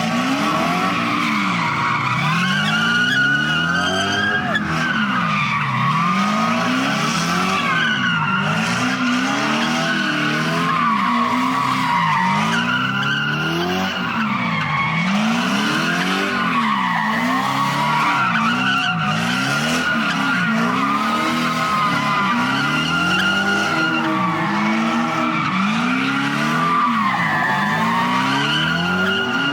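A car's tyres squealing without a break under wheelspin, while its engine revs rise and fall again and again, about once a second.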